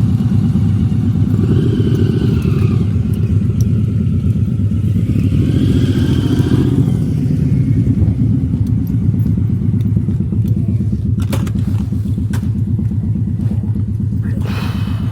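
Motorcycle engine running with a steady low rumble, its pitch rising and falling a couple of times.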